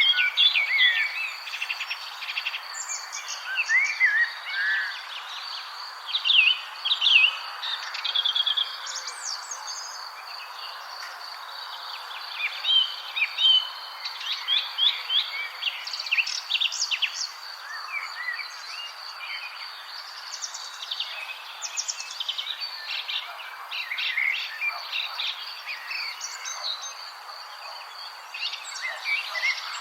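Several birds chirping and singing in quick, overlapping calls over a steady high-pitched insect tone and a soft background hiss.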